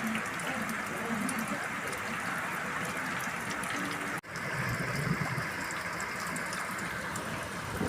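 Rainwater running in a steady stream along a road after a heavy downpour. The sound drops out for an instant about four seconds in.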